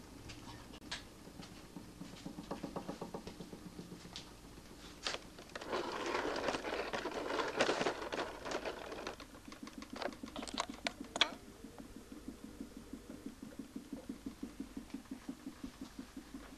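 Homemade mechanical televisor running: its AC fan motor spins a 40 cm plywood Nipkow disc with a steady, rhythmically pulsing hum. Scattered clicks and a louder rustling, handling-type noise come roughly in the middle.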